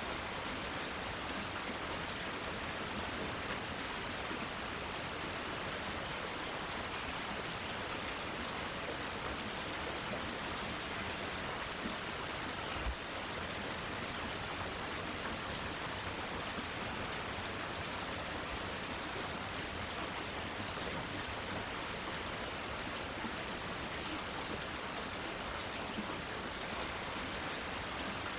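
Steady rainfall pattering on plants and foliage, an even hiss with one faint low thump about halfway through.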